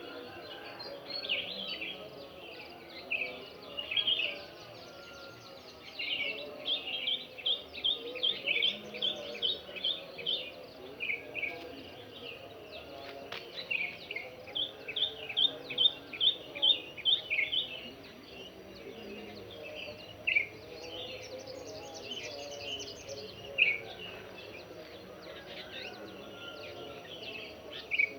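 Birds singing: one bird repeats a sharp chirping note in fast even runs of several notes, with scattered calls from others between, over faint steady background noise.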